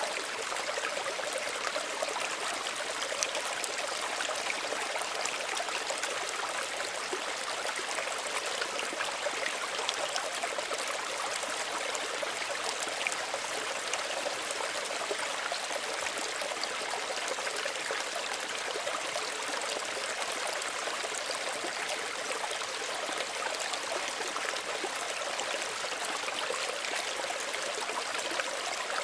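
Small stream running steadily over stones, an even rushing babble with fine trickling splashes.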